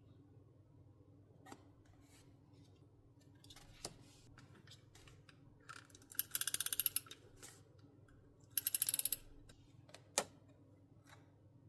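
Journaling stationery handled on a desk: two short bursts of rapid fine ticking, about six and eight and a half seconds in, with a few soft taps and one sharp tap near the end.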